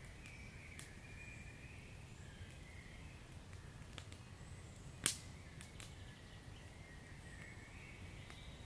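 Wood fire crackling softly, with scattered small pops and one sharp, louder pop about five seconds in, over a low steady rumble.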